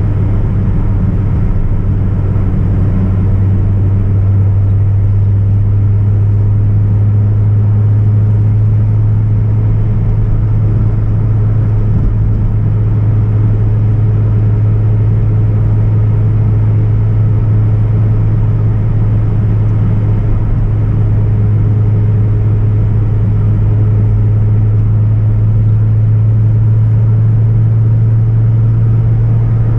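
Hyundai Tiburon (Coupe) 2.0 petrol four-cylinder engine and exhaust droning steadily while the car is driven at a constant pace, over a bed of road noise.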